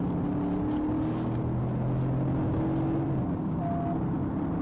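Car engine running steadily while the car is under way, with road noise.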